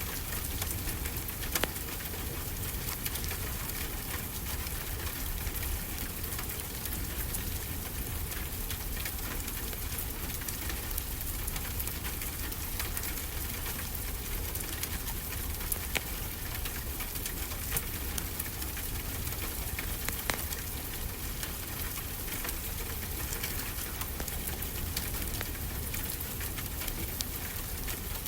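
Steady wash of ocean surf with a low rumble, overlaid with the sharp crackles and pops of a wood fire burning in a fireplace, scattered irregularly throughout.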